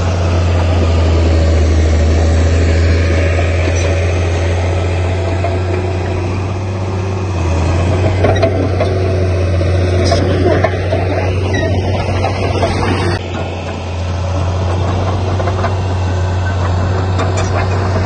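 Heavy diesel machinery running steadily with a deep engine drone. For a few seconds around the middle the sound changes abruptly, then returns.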